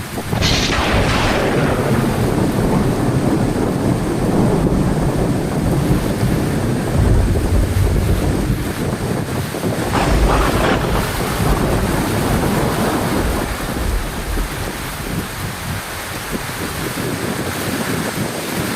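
Heavy rain falling steadily through a thunderstorm. Thunder cracks sharply about half a second in and again about ten seconds in, with deep rumbling in between.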